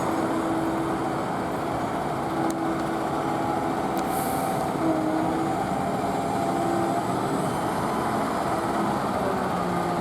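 Steady running noise of a heavy truck's engine amid street traffic, with a faint tone that comes and goes.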